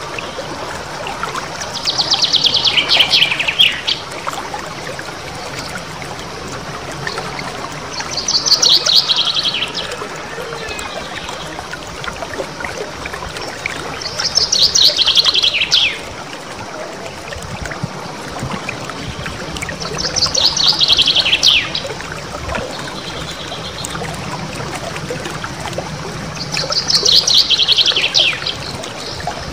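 A small songbird sings a rapid, rolling trill of quick notes that falls in pitch, five times, each burst about two seconds long and about six seconds apart. A steady trickle of running water sounds underneath.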